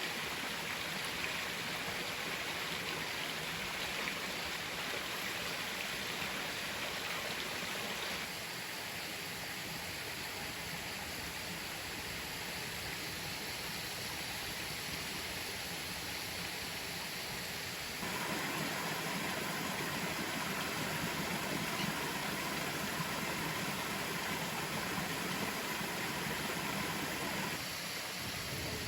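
Steady rush of water from a waterfall. Its tone changes abruptly about 8 seconds in, again about 18 seconds in, and once more near the end.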